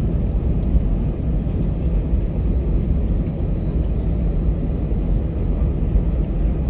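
Steady low rumble inside the cabin of an Airbus A320 on the ground before takeoff, its engines running at low power.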